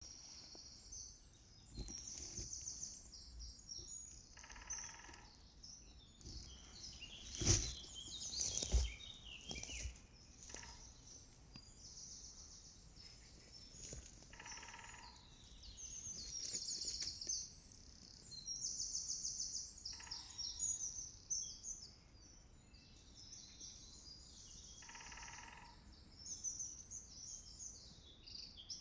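Songbirds singing in spring woodland, with high trills and warbles throughout and a lower, harsher call repeating about every five seconds. A few sharp knocks stand out loudest about seven to nine seconds in.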